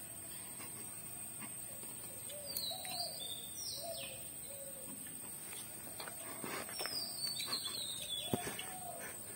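Faint birds calling: a run of short low notes and a few high, falling chirps, with scattered faint clicks and taps.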